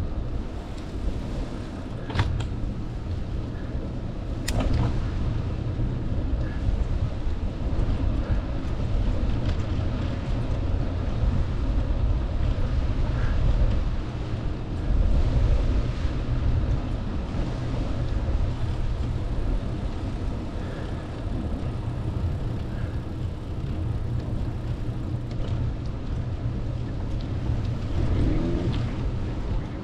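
Wind buffeting the microphone of a moving bicycle, a steady low rumble that rises and falls in loudness. Two sharp clicks about two and four and a half seconds in.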